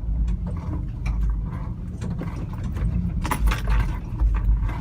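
Pickup truck driving, heard from inside the cab: a steady low road and engine rumble with light rattling and clinking, and a short rushing noise a little over three seconds in.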